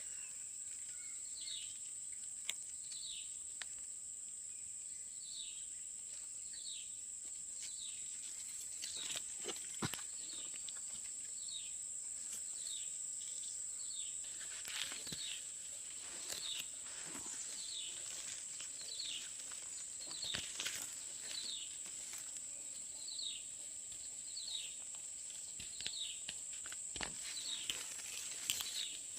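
Outdoor ambience: a steady high insect drone, with an animal's short, high, falling call repeated about once a second and scattered faint clicks.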